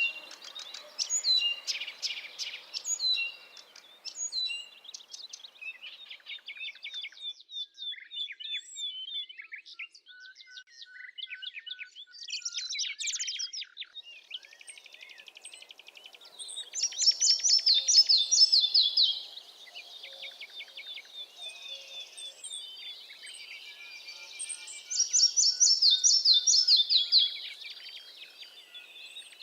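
Several songbirds singing, with chirps and trills overlapping throughout. Twice, about eight seconds apart, one bird sings a loud song of rapid notes that fall in pitch, each lasting about two and a half seconds.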